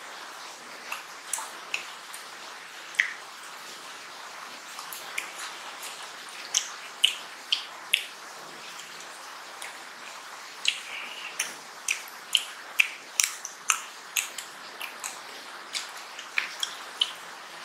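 Close-miked wet chewing and lip-smacking of mutton curry and rice, a string of sharp, irregular wet clicks over a steady hiss, busiest in the middle.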